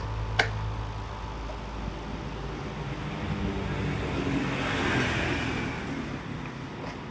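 Electric fan running fast, with a steady motor hum. There is a sharp click about half a second in. A rushing noise swells, peaks about five seconds in, then fades.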